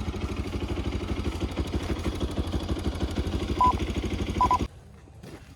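Motorcycle engine idling with a steady, even pulse; two short high beeps sound near the end, and then the engine sound stops abruptly.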